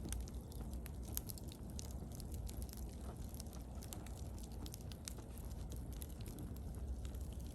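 Wood bonfire burning, crackling with scattered small pops and snaps over a steady low rumble of the flames.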